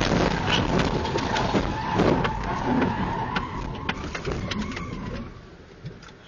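Car crash: a sudden bang, then a few seconds of clattering and scraping over a steady squeal, dying away about five seconds in.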